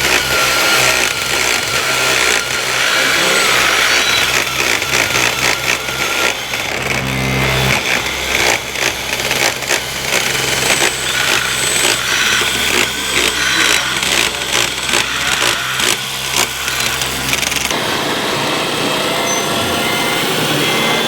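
Small electric motors and gear whine of radio-controlled model construction machines at work, with a run of clicks and clatters in the middle. A low hum underneath stops shortly before the end.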